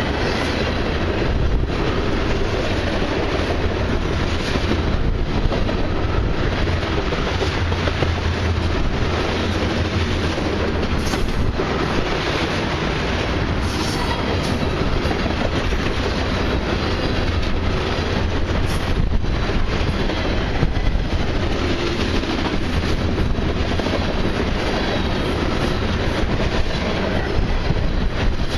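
Loaded crude oil tank cars of a long freight train rolling past: a steady, loud rumble of steel wheels on rail, with intermittent clicks over the rail joints.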